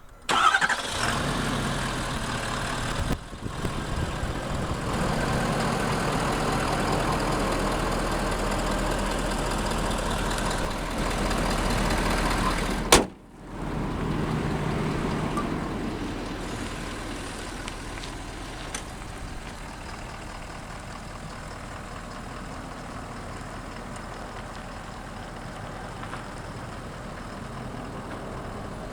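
Ford F-450 truck engine catching about half a second in and running loud and steady. About 13 seconds in there is a sharp click and a brief dip, after which it settles to a quieter, even idle.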